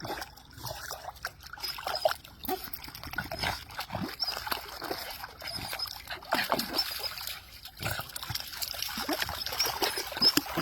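Water splashing and trickling irregularly as a corgi paddles and swims.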